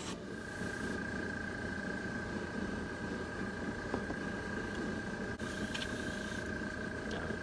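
Airbrush spraying ink in short hissing bursts, near the start and again about six seconds in, over a steady low hum and a thin constant whine.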